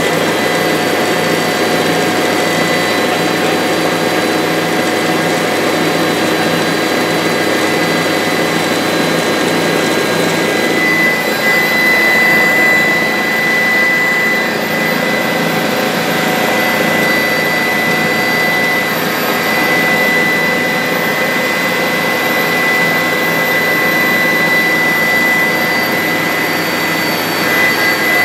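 Bell 407 helicopter in flight, its turboshaft engine and rotor giving a loud, steady noise with a high whine held throughout. The whine grows a little stronger about eleven seconds in.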